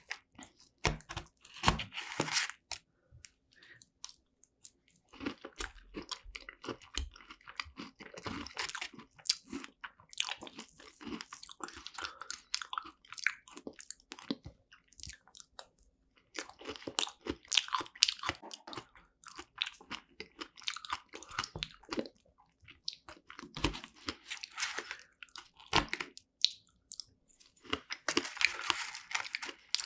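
Close-miked chewing and biting of a strawberry rare cheese tart with fresh strawberries. The mouth sounds come in spells of a few seconds with short pauses between them.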